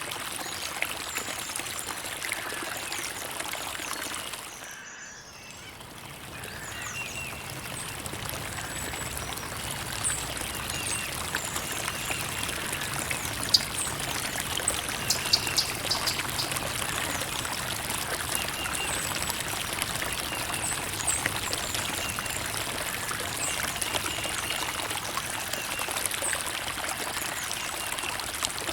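Creek water trickling and flowing steadily, briefly dipping in level about five seconds in.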